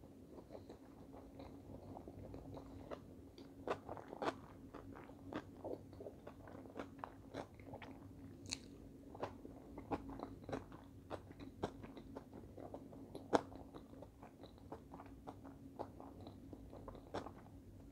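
A mouthful of salmon-topped sushi roll being chewed close to the microphone with the mouth closed: many small irregular mouth clicks, over a faint steady low hum.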